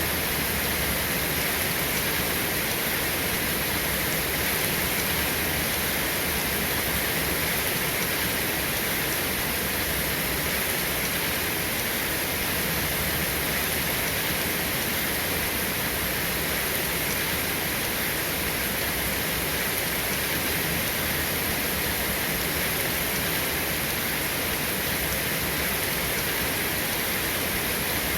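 Steady, continuous rain falling, an even hiss with no thunder or single drops standing out.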